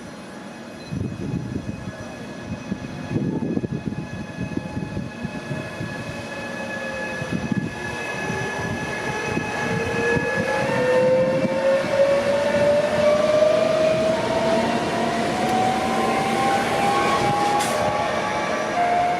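An electric train is running at the platform. From about eight seconds in, a motor whine rises steadily in pitch and the train grows louder, as it does when the train gathers speed.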